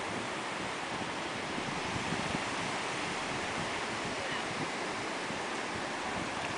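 Ocean surf washing steadily, with wind buffeting the microphone in an uneven low rumble.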